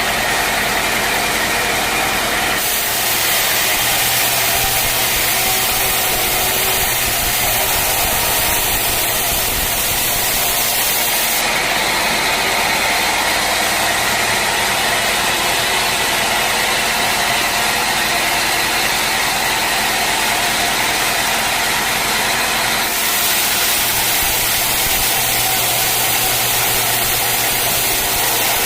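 Sawmill machinery running steadily while sawing a teak log: a loud, even noise over a machine hum. Its character changes abruptly three times.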